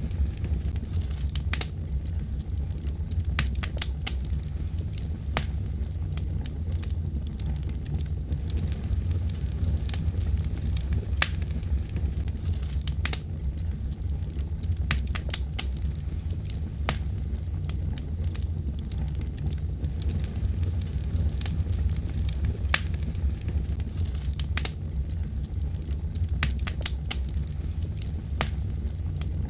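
Wood fire burning with a steady low rumble of flame and scattered sharp pops and crackles from the burning wood.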